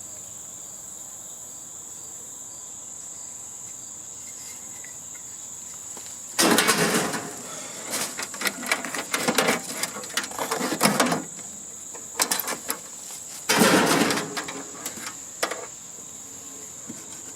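Steady high-pitched chorus of crickets. From about six seconds in it is broken by a run of loud, irregular noisy bursts from work on the unit, the two loudest about six and thirteen and a half seconds in.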